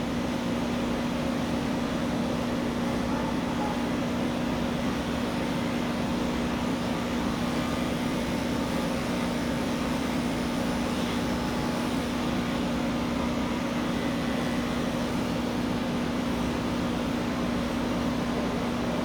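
Electric pet clippers running with a steady hum while shaving a cat's coat.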